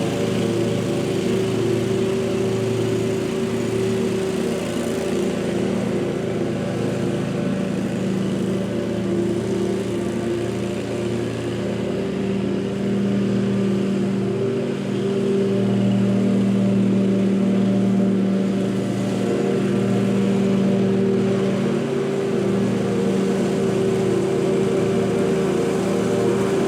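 Small petrol engine of lawn-care equipment running steadily at a constant speed: an even engine hum that gets a little louder around the middle.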